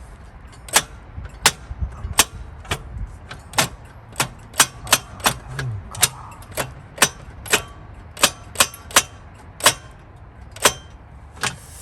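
Repeated sharp metallic taps or knocks, about twenty at uneven intervals of roughly half a second.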